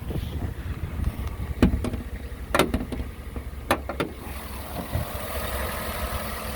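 Chevrolet Tahoe V8 idling steadily and quietly, with a few sharp clicks and knocks over it; about four seconds in the engine sound turns brighter and hissier.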